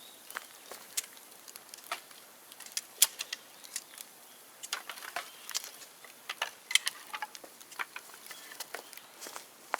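Bonfire of dry, dead bamboo crackling: irregular sharp pops and snaps, with one louder crack about three seconds in.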